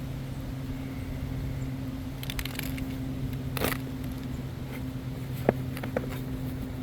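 A steady low machine hum, with a short rustle about halfway through and two light clicks near the end.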